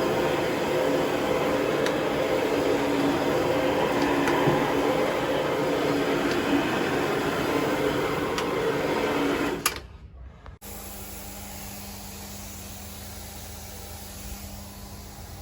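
A loud, steady machine drone with a few held tones, which cuts off suddenly about ten seconds in and gives way to a quieter steady hum.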